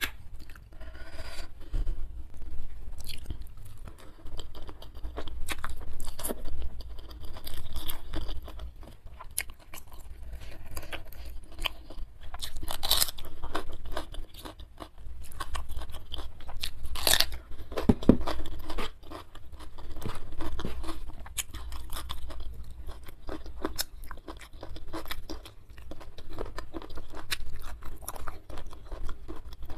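Close-miked eating sounds: wet chewing and repeated crunchy bites as a person eats rice with sambal and bites into raw cucumber. The loudest crunches come about 13 and 17 seconds in.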